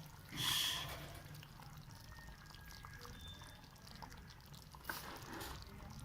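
Fish curry simmering gently in the pot on a low flame, a faint soft bubbling. A brief louder noise comes just after the start and another about five seconds in.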